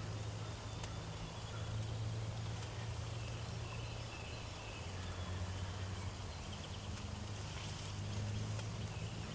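Field ambience: a steady low hum with faint, short, distant bird calls over it.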